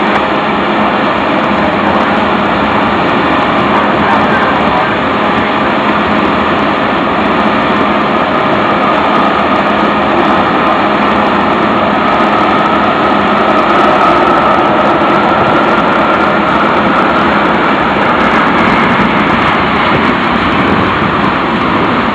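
Freight train of tank cars rolling past, a steady loud roar of steel wheels on rail, with a faint high whine through the middle that rises slightly.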